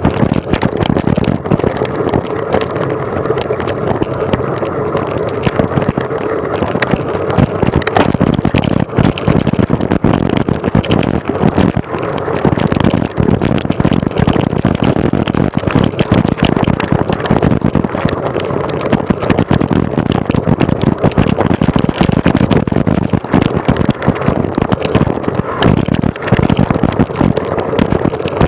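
Dense rattling and knocking with rushing wind noise, the sound of a camera carried on a mountain bike over a rough forest trail at speed.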